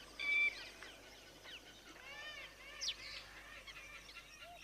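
Bird calls: a short call with stacked pitches near the start, then a run of arched, rising-and-falling notes about two seconds in and a quick rising note just after.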